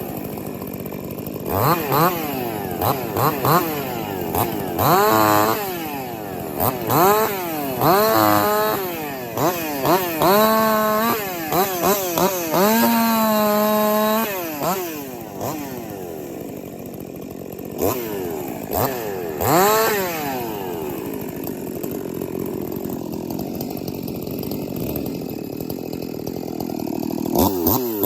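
A 50 cc-class two-stroke chainsaw revving up and down in repeated short bursts while cutting wood, with one longer stretch held at high revs. In the last part it runs more quietly and steadily.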